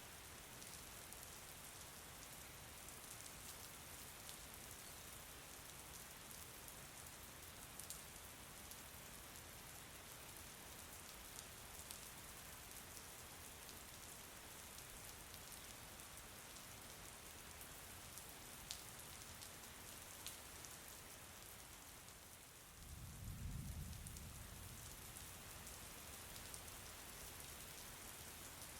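Steady rain falling, faint: an even patter with scattered sharper drops. About two-thirds of the way through, a low rumble swells for about a second.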